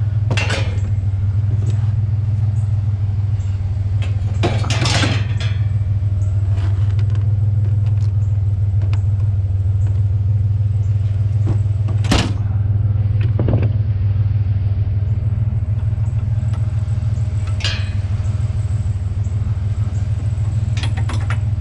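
Vehicle engine idling with a steady low rumble, with a few short knocks and clatters about five, twelve and eighteen seconds in.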